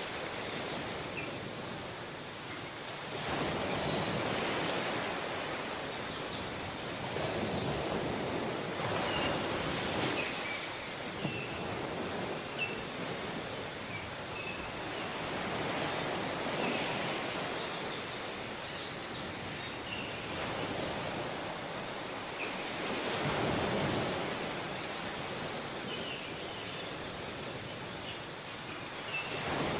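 Ocean surf on a tropical beach: waves washing in and breaking, swelling and falling every few seconds over a steady hiss of water. Faint short high chirps come now and then.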